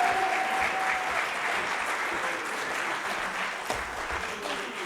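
Audience applauding, the clapping easing off gradually.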